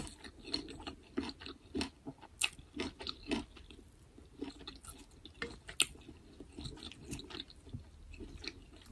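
A person chewing food close to the microphone: irregular soft mouth clicks and smacks.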